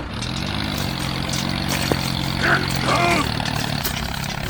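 The small motor of a homemade mini tractor speeds up over the first second, then runs at a steady pitch. A short voice-like sound comes about three seconds in.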